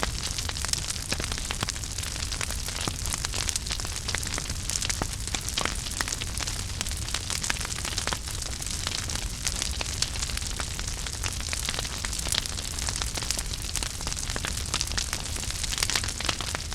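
Wood fire burning in a fireplace: a steady hiss and low rumble of the flames with many sharp crackles and pops from the burning logs.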